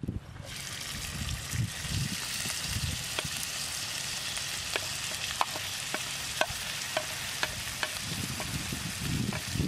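Food hitting hot oil in a frying pan and sizzling. The sizzle starts suddenly about half a second in and then holds steady, with repeated sharp clicks of a spatula scraping and tapping against the pan and plate, and a few dull low bumps.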